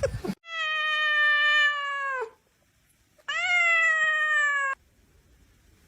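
A domestic cat giving two long, drawn-out meows, the first about two seconds long and dropping in pitch as it ends, the second shorter, rising briefly at its start.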